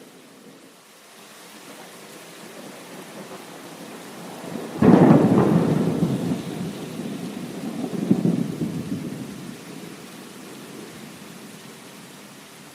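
Rain falling steadily as a thunderstorm plays; about five seconds in a sudden thunderclap breaks and rumbles on, swelling again about three seconds later before fading back under the rain.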